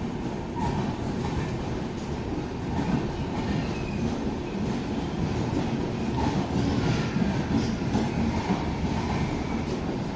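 Train moving on the rails, a steady rumble of its coaches' wheels running over the track, growing a little louder in the second half.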